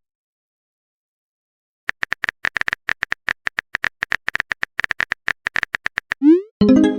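Smartphone keyboard typing sound effect: rapid, irregular taps for about four seconds, starting after two seconds of silence. Near the end a short rising swoosh and a chime-like tone, the alert of a text message being sent or received.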